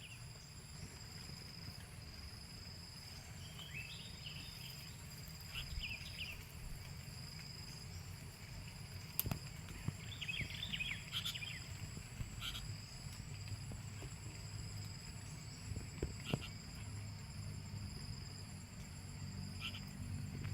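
Steady high-pitched insect drone, like cicadas or crickets, with a few short clusters of bird chirps, the longest about ten seconds in. Two sharp clicks and a low rumble sit under it.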